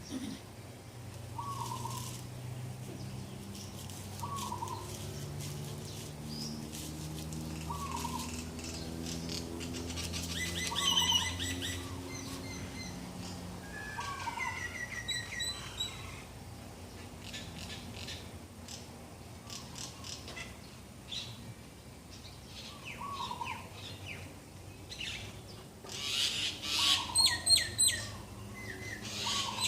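Morning birdsong: several birds chirping, one repeating a short call every two to three seconds, with a loud flurry of rapid high chirps near the end. A low steady hum runs underneath in the first half.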